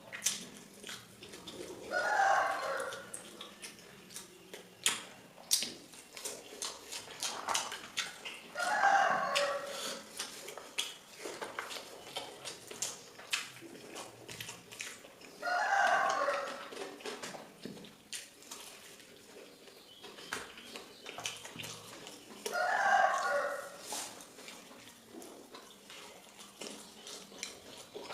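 A rooster crowing four times, about seven seconds apart, each crow lasting about a second. Between the crows, many short clicks and smacks of close-up eating.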